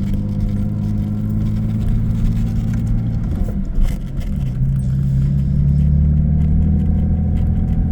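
1985 Jaguar XJS engine running as the car pulls away at low speed, its note stepping up a little about halfway through, with a brief bump about four seconds in.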